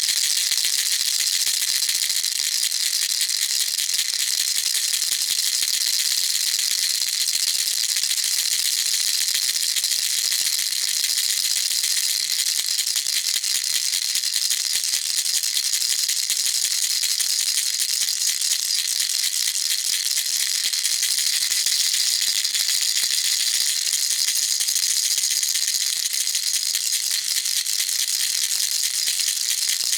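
Baby rattle shaken continuously and fast, a steady dense high-pitched rattling of small beads without pauses.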